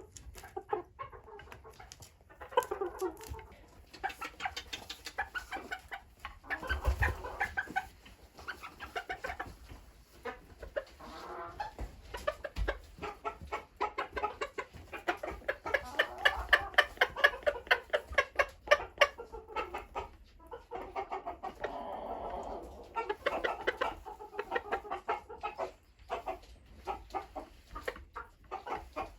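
Hens clucking on and off, with many quick sharp taps mixed in, busiest around the middle.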